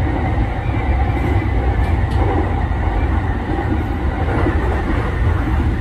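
JR 209 series 500 subseries electric train running at speed, a steady rumble of wheels on rail and running gear heard from inside the leading car.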